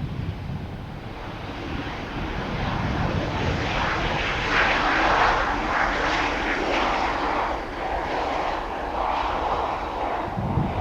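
Arriving jet airliner passing low: its engine roar swells over the first few seconds, is loudest about halfway through, then eases. Wind rumbles on the microphone underneath.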